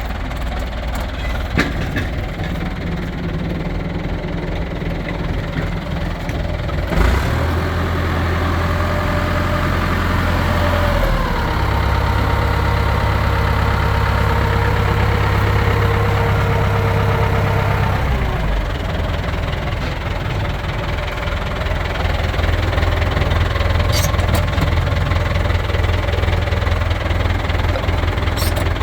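Massey Ferguson 698 Turbo tractor's diesel engine running at idle. It is brought up to a higher steady speed about a third of the way in, held there for several seconds, then dropped back to idle. A few short clicks are heard near the start and end.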